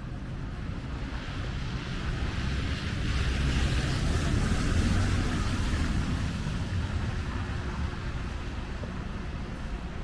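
A vehicle driving past on the street, its tyre hiss and engine rumble swelling to a peak about four seconds in, then fading away.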